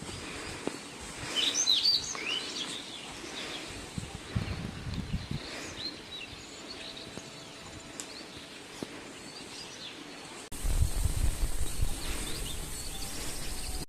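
Small birds chirping and calling over faint outdoor background noise, busiest in the first couple of seconds. About ten seconds in, a louder low rumbling noise starts abruptly.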